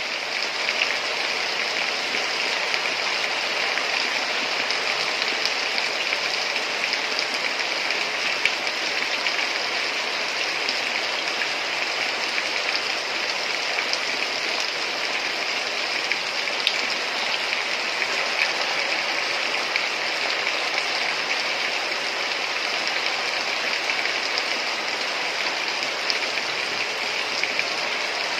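Steady heavy rain, an even hiss with small pattering ticks of drops running through it.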